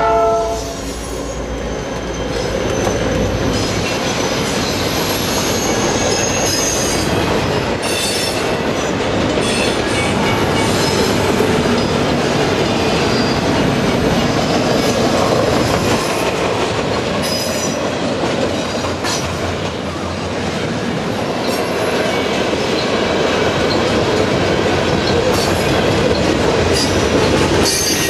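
A train's cars rolling past close by: a steady rumble of steel wheels on the rail, with clicking over rail joints and scattered high-pitched squeals from the wheels. The horn cuts off right at the start.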